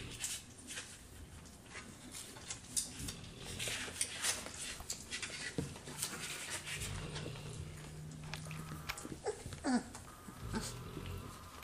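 Mastiff puppies playing: scuffling and clicking as they tussle, with a short rising whine near the end.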